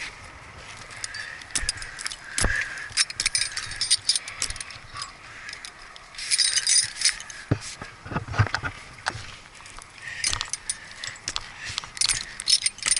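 Irregular light metallic clinking and jingling with scattered sharp clicks, like rigging or climbing hardware knocking together, coming and going in clusters.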